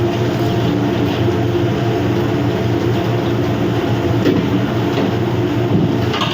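A steady low machinery drone with a constant hum, with a few light clicks from kitchen work, the last near the end.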